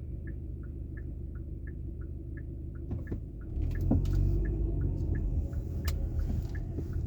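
Car cabin with an indicator ticking evenly at about three ticks a second in a two-note tick-tock, over a steady low engine and road hum. About three and a half seconds in, the engine and road noise rise as the car pulls away.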